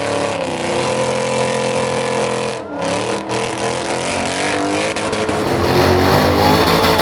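Performance car engines revved and held at a steady high rpm against a two-step launch-control rev limiter. The pitch dips briefly near the middle, and a louder engine takes over about five seconds in.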